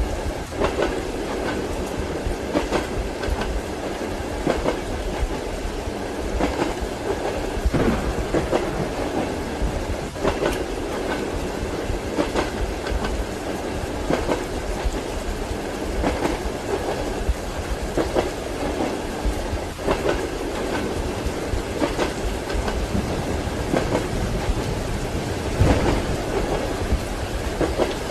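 Train wheels clacking over rail joints in a steady rhythm, the knocks coming in pairs about every two seconds, heard as from inside a passenger compartment. A steady hiss of rain runs underneath.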